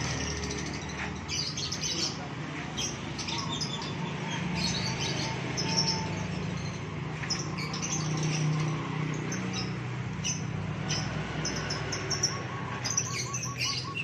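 Many small caged birds chirping at once, short high chirps overlapping throughout, over a steady low hum.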